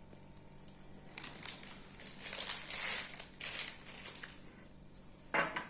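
Plastic snack packaging crinkling and rustling irregularly as it is handled, loudest in the middle, with a short loud clatter at the very end.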